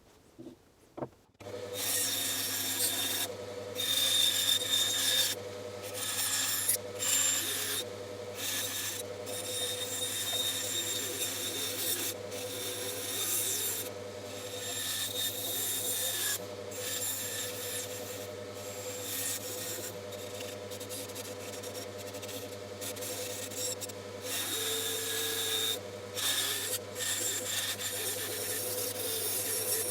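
Bandsaw running and cutting through wood: a steady motor hum under the rasping of the blade in the cut, broken by many brief gaps. It starts abruptly about a second and a half in.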